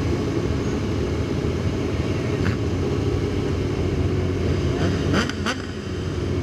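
Vehicle and road noise: a steady low rumble, with a few sharp knocks or clicks about two and a half seconds in and again near the end.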